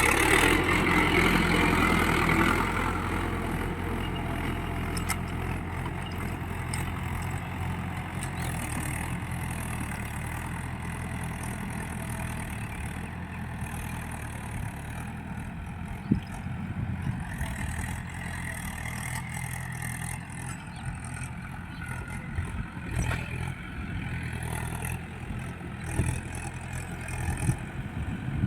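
Swaraj tractor's diesel engine running steadily while pulling a plough, louder for the first couple of seconds and then even, with a single sharp knock about halfway through.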